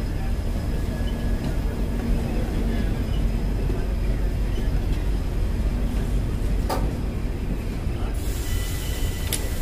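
Two passenger trains running past each other on adjacent tracks, heard from the open doorway of a moving coach: a steady rumble of wheels on rails, with two sharp clicks, one about two-thirds of the way through and one near the end.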